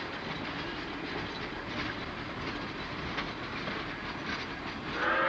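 Passenger coaches of a steam excursion train rolling past, a steady rumble with wheels clicking over rail joints. About five seconds in, the Pere Marquette 1225's steam whistle starts to blow, a chord of several steady tones, louder than the passing cars.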